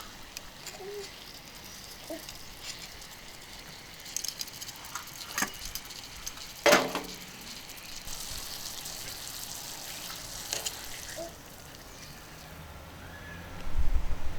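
Food sizzling and crackling on a hot iron plate over a wood fire, with scattered clicks, a sharp knock about seven seconds in, and a low rumble near the end.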